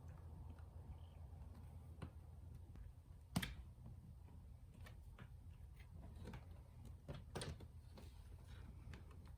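Small clicks and taps of tools and console parts being handled, with a sharp knock about three seconds in and another about four seconds later, over a faint low hum.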